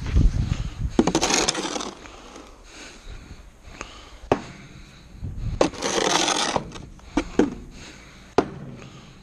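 Hand snow shovel scraping through snow in two long strokes, each opening with a sharp knock of the blade. Several more single knocks come between the strokes.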